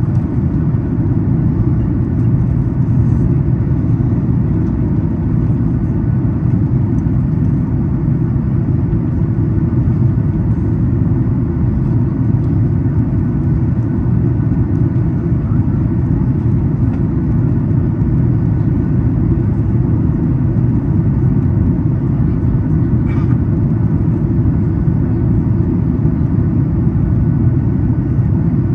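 Steady cabin rumble inside a Boeing 737 MAX 8 airliner on approach: the deep, even roar of airflow and its CFM LEAP-1B engines, heard from an economy seat.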